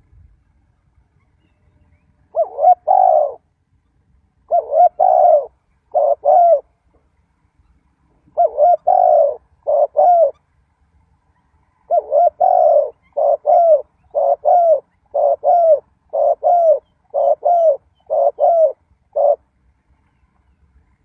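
Spotted dove cooing: a series of short, mellow coo phrases in groups with pauses between them, then a quicker run of brief coos that stops a little before the end.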